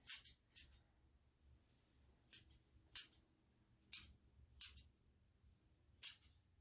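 Grooming scissors snipping a dog's coat, about seven short, crisp snips at an uneven pace, cutting away the matted hair stuck to the pad of the paw.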